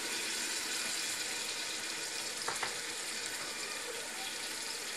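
Mutton, onions and oil sizzling steadily in an aluminium pot with freshly added tomato paste, with a couple of faint clicks about halfway through.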